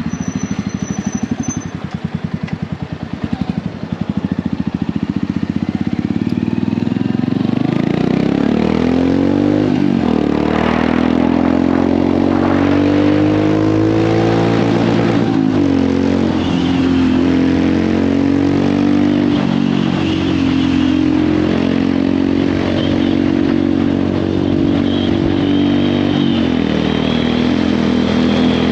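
Royal Enfield Hunter 350's single-cylinder engine and exhaust, with separate exhaust beats at low revs for the first few seconds, then accelerating. The revs rise and drop sharply at gear shifts about ten and fifteen seconds in, then hold at a fairly steady cruise with small rises and falls.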